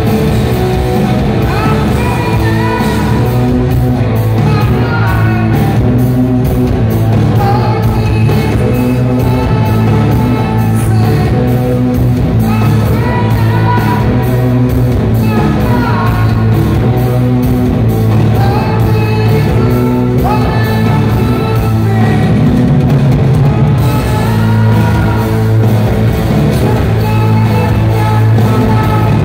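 Live rock band playing loudly in a large hall: a male lead vocal sings over distorted electric guitars, bass and drums.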